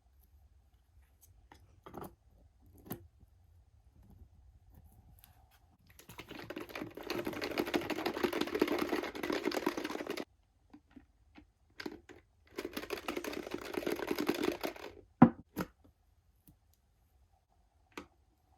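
Toy packaging being handled and opened: scattered light clicks, then two long stretches of dense crinkling rustle, followed by a couple of sharp knocks and a last click near the end.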